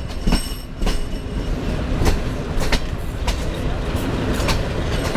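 Passenger train running along the track, heard from an open carriage window: a steady low rumble with irregular sharp clacks as the wheels pass over rail joints, and a faint high metallic ring less than a second in.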